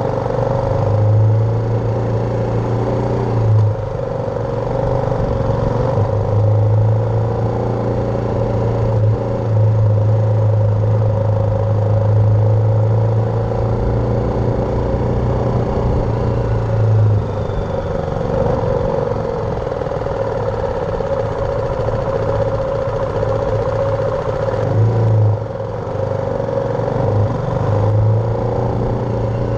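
BMW G310R's single-cylinder engine running under way, a steady engine note that breaks and changes briefly about three and a half seconds in, again about halfway through and near the end, as with gear changes or throttle changes.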